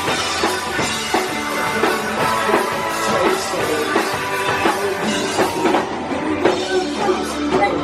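Live punk rock band playing: electric guitars, bass and drum kit going at full volume between sung lines.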